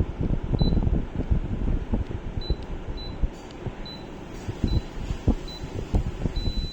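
A series of short, high electronic beeps, about seven of them irregularly spaced, the last one held longer, over rumbling and knocking handling noise on the microphone.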